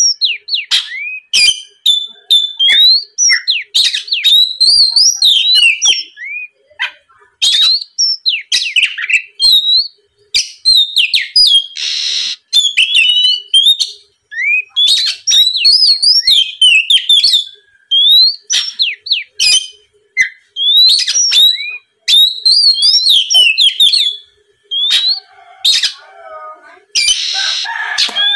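Oriental magpie-robin singing loudly: a varied song of quick whistled notes sliding up and down in phrases broken by short pauses. A harsh, rasping note comes about twelve seconds in and again near the end.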